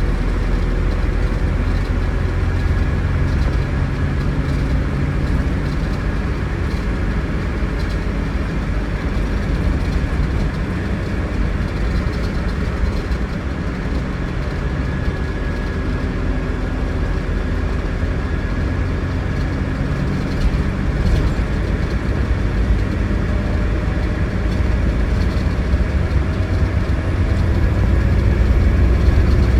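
A Scania coach under way: its 9.3-litre Scania DC09 diesel runs steadily under a haze of road and running noise, growing a little louder over the last few seconds.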